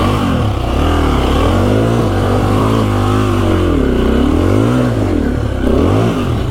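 KTM EXC-F 350's single-cylinder four-stroke engine revving up and down several times as the dirt bike is ridden.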